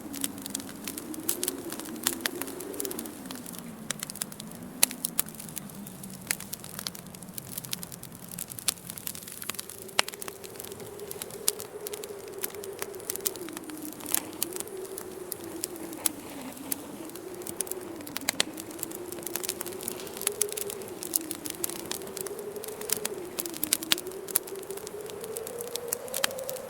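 Wood fire crackling with frequent sharp pops, over a low howling wind that wavers up and down in pitch. The wind tone sinks and fades in the first half, then comes back about ten seconds in.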